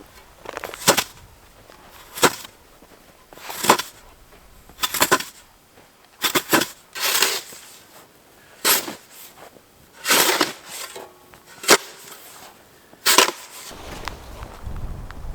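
Snow being cleared away in about ten quick scraping strokes, one every second or so, each a short bright rasp.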